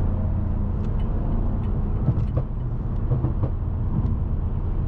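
Steady low drone of a BMW M550i's twin-turbo V8 and road noise heard from inside the cabin while driving, with a few faint scattered ticks.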